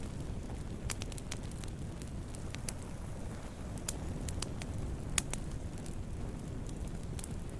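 Wood campfire burning with a steady low rush, with frequent sharp crackles and pops at irregular intervals; the loudest pop comes about five seconds in.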